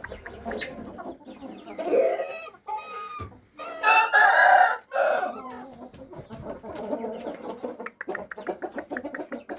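Shamo rooster crowing once, about four seconds in, with shorter clucking calls before it and a run of small clicks throughout.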